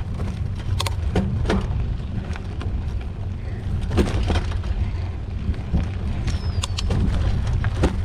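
Mountain bike riding over a rough dirt trail: a steady low rumble with scattered clicks and rattles from the bike jolting over the ground.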